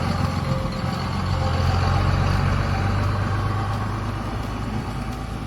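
Truck engine running as it drives off for another load of rock, growing louder about two seconds in and then slowly fading.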